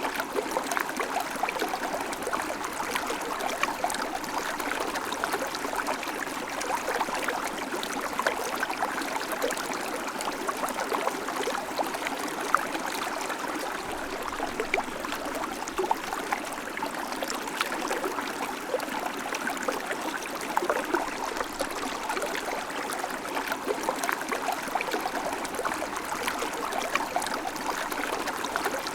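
River water flowing steadily over stones, a continuous rushing and babbling with small splashes throughout.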